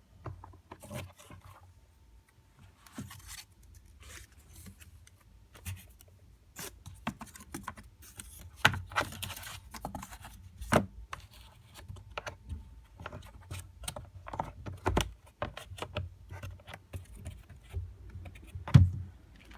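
Irregular scraping, rustling and knocking of a cardboard cat scratcher being handled, with a dense patch of scraping partway through and a sharp knock near the end.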